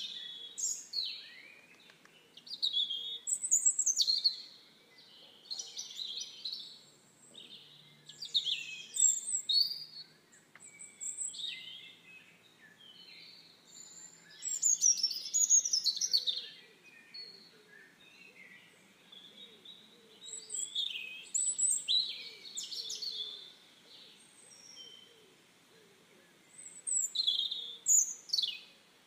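Birds chirping and singing in repeated bursts of quick, high calls, with short quieter gaps between the bursts.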